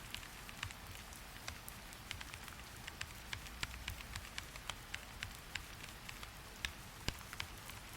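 Steady rain with frequent sharp, irregular clicks of drops.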